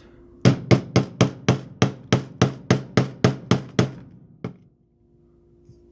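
A crowbar tapping a small steel pin punch in rapid, even strikes, about four a second, a dozen or so in a row and then one lighter blow. The strikes drive the roll pin out of a flip key's blade held in a roll pin removal vise.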